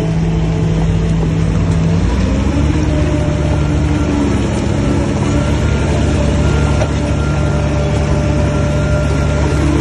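Heavy diesel engine of earthmoving machinery running steadily under load, its pitch shifting slightly about two seconds in.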